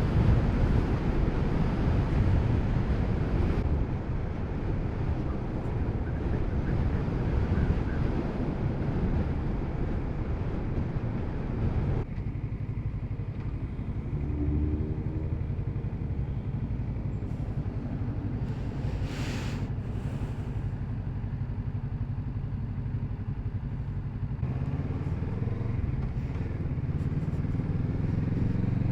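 Kawasaki Z650RS parallel-twin engine running as the motorcycle is ridden, a steady mix of engine note and road rush, a little louder for the first few seconds and then settling.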